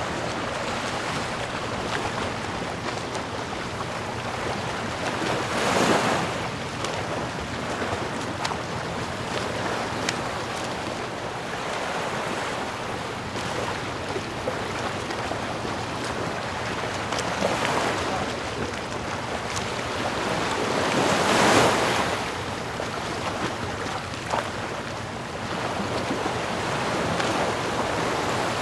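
Sea waves washing on a shore in a steady rush of surf, with two larger waves swelling and breaking about six seconds in and again past the twenty-second mark.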